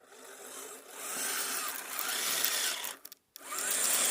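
Electric motor and gears of a scale RC crawler truck whining under throttle, the pitch rising and falling. It cuts out briefly about three seconds in, then comes back with a rising whine.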